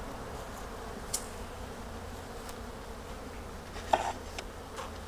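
Honeybees buzzing steadily around an opened hive, with a few light clicks and a sharper knock about four seconds in.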